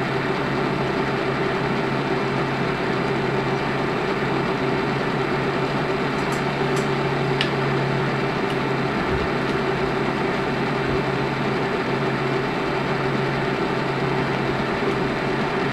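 Steady low electrical hum with hiss, unchanging throughout.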